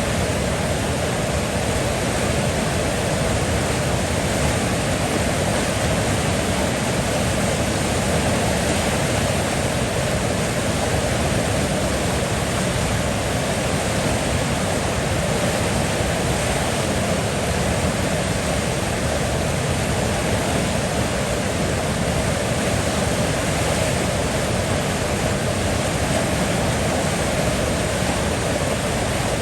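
River water flowing and rushing, an unbroken, even wash of sound with no changes.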